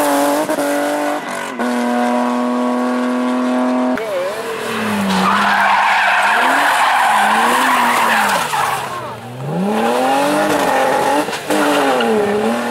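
Rally car engine revving hard, its pitch climbing and dropping through gear changes, with a steady held note for about two seconds near the start. Tyres squeal through a corner in the middle.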